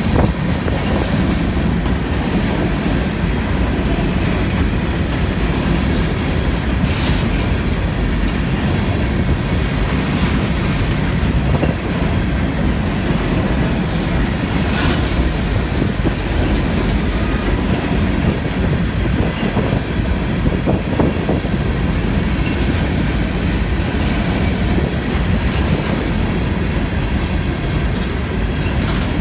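Cars of a CSX empty coal train rolling past: a steady loud rumble of steel wheels on rail, with occasional clicks at the rail joints.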